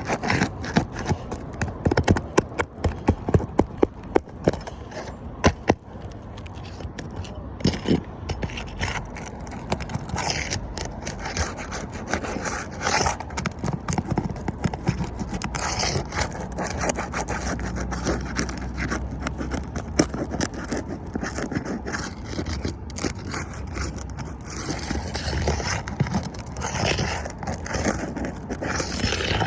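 An asphalt roof shingle being pried and worked loose with a roof snake shingle-removal tool: repeated scraping with sharp clicks and knocks. The knocks are most frequent in the first several seconds, then it settles into steadier scraping with occasional taps.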